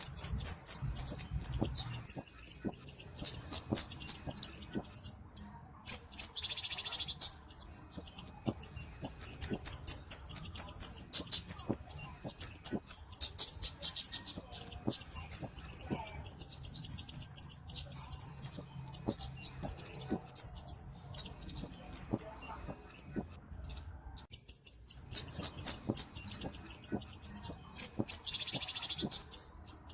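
Flowerpecker (cabe-cabean) calling: fast runs of sharp, high chip notes, several a second, broken by short pauses. A brief hiss comes twice, about six seconds in and near the end.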